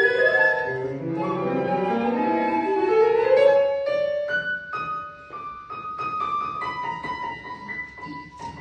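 Flute and piano playing contemporary classical music. It opens with rising piano runs under a held high flute note, then from about halfway the piano plays short, separated chords beneath long sustained flute tones.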